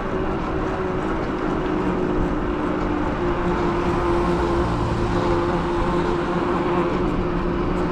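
E-bike riding along at steady speed: a steady motor whine over wind and road noise.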